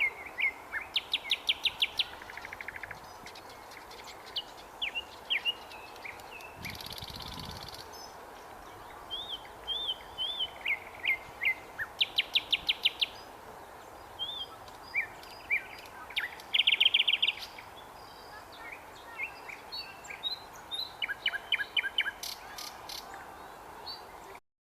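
Nightingale singing in varied phrases: runs of repeated whistled notes and fast, loud rattling trills separated by short pauses, over a steady background hum. A brief hissing rush comes about seven seconds in.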